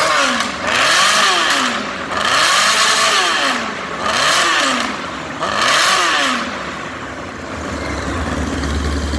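1997 Honda CBR600F3's inline-four engine and exhaust revved in a series of throttle blips, about five, each rising and falling in pitch, then settling back to a steady idle near the end.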